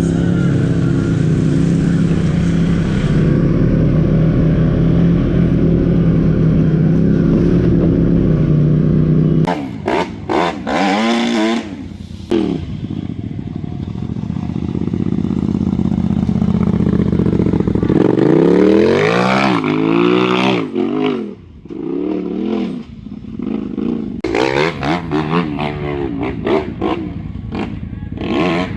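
Off-road vehicle engine running under steady load, then, after an abrupt change about nine seconds in, revving up and down repeatedly in short bursts of throttle.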